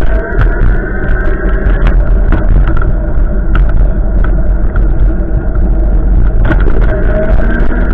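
Strong wind gusts buffeting the microphone: a loud, continuous rumble with scattered clicks.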